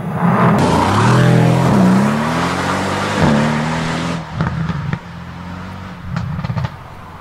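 Sports car engine revving and accelerating, its pitch rising and falling, over a loud rush of tyre and wind noise as it drives past. About four seconds in the rush drops away and the engine settles to a quieter, steadier run.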